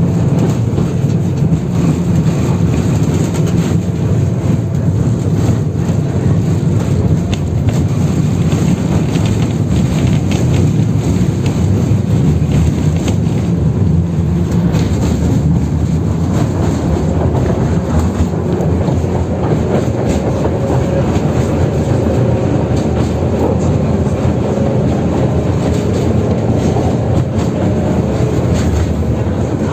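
71-608KM tram heard from inside while under way: a steady, loud rumble of wheels on rail and rattling of the car body, with scattered clicks from the track, on a route with heavily worn rails.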